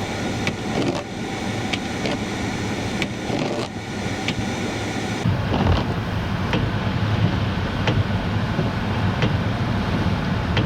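Steady low rumble of a vehicle moving through a blizzard with wind noise, scattered sharp ticks throughout. The sound changes abruptly about five seconds in.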